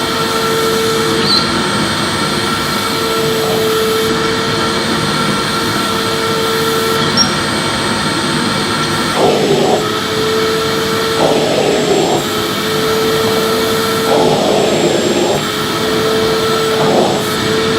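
Electric vacuum cleaner running steadily while sweeping. A mid-pitched hum comes and goes every couple of seconds, and several short, rougher surges come in the second half.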